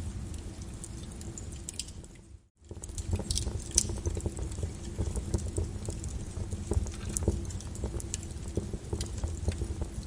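Lava flow crackling and popping with many small irregular clicks over a steady low rumble. About two and a half seconds in, the sound dips briefly almost to silence and then returns.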